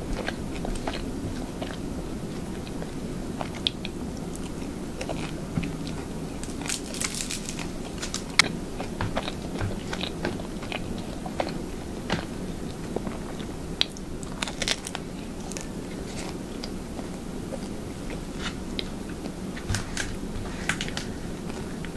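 Close-up eating of garlic toast dipped in demi-glace gravy: chewing and biting with scattered crisp crunches.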